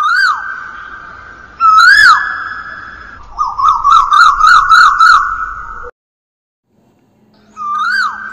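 Oriental magpie robin song: clear whistled notes that slide up and drop away, then a quick run of short rising notes. After a pause of about a second and a half the sliding whistles begin again.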